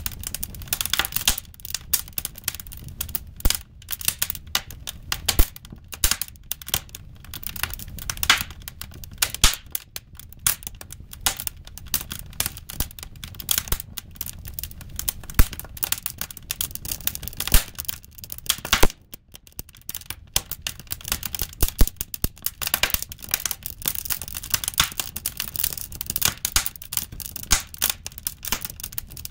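Wood fire crackling: seasoned firewood popping and snapping irregularly over a low rumble, with a brief lull about two-thirds of the way through.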